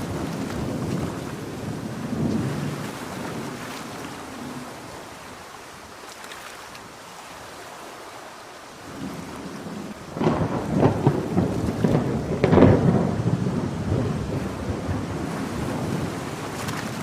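Thunder rumbling over steady heavy rain. The rumble dies down midway, then a louder crackling peal builds about ten seconds in and slowly fades.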